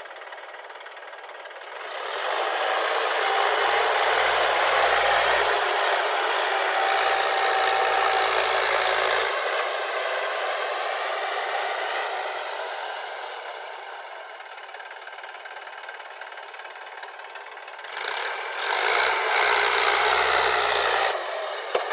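Heavy machinery engine running and revving: it swells up about two seconds in, stays loud for about ten seconds, eases off, then revs up again for a few seconds near the end.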